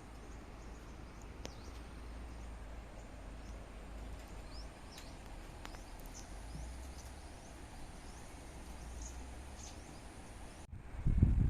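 Quiet rural ambience: a steady low rumble with scattered short, high bird chirps. Near the end the sound cuts off abruptly and loud low thumps begin.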